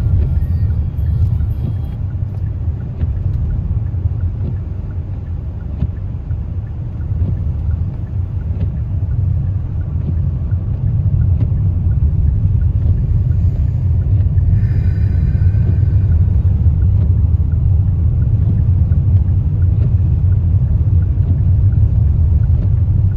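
Steady low rumble of a car driving on a winter highway, engine and tyre noise heard from inside the cabin, growing louder about halfway through. A short higher-pitched tone sounds briefly about fifteen seconds in.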